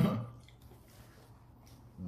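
A steady hummed voice, like an "mmm", fades out just after the start, followed by faint small clicks of someone chewing food with the mouth closed.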